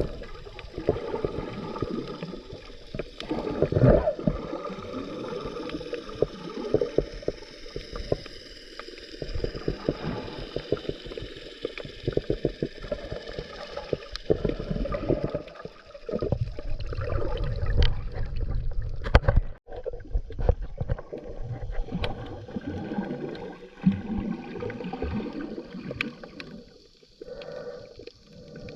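Underwater sound of a scuba diver's breathing: exhaled bubbles from the regulator gurgle past the camera in repeated bursts over a low rumbling water noise, with a few sharp clicks.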